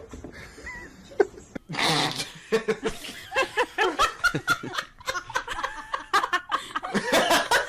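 People laughing hard in repeated bursts, with a sharp knock about a second in and a louder burst of sound near two seconds.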